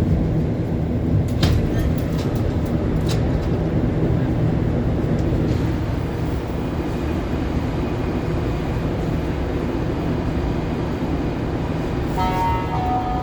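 Montreal MR-73 rubber-tyred metro train, heard from inside the car: a steady rumble, with a few sharp clicks in the first few seconds. Near the end, several steady electrical tones come in.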